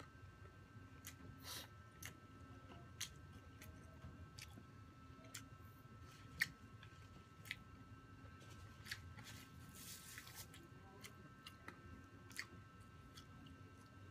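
A person chewing food close to the microphone, eating with the hands, with irregular sharp clicks and crunches from the mouth and food; the loudest crunch comes about six seconds in.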